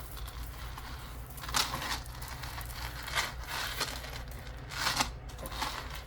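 Metal costume jewelry being handled: a tangle of chain necklaces rustling and lightly clinking as they are lifted and sorted, with a few louder rustles about a second and a half, three and five seconds in.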